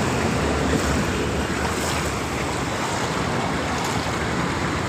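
Steady rushing wash of water from heavy rain on a flooded, waterlogged road.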